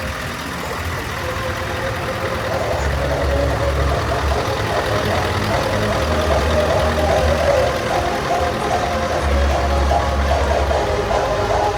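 Heavy truck diesel engine idling steadily, with a deep, pulsing low rumble.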